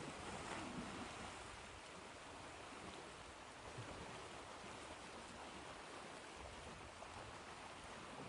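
Ocean surf washing in a soft, steady hiss, swelling a little in the first second or so.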